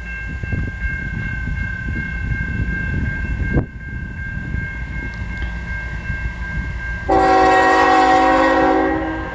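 Approaching CN freight locomotive rumbling low, then sounding its air horn in one loud blast of about two seconds near the end. A faint steady high-pitched tone runs underneath.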